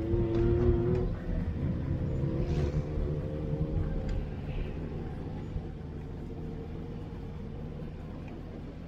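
Off-road vehicle's engine running while driving along a dirt trail, heard from inside the cabin. It has a stronger, higher engine note for about the first second, then settles into a steady lower running sound that slowly gets quieter.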